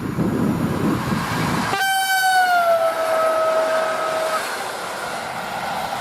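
EN57 electric multiple unit sounding one long horn blast of about two and a half seconds, which drops in pitch as the train passes. The rumble of the passing train comes before it and running noise follows.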